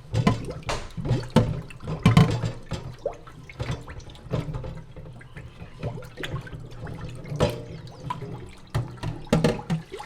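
Water running into a kitchen sink, with irregular knocks and clinks of dishes or utensils being handled in it as the sink is washed.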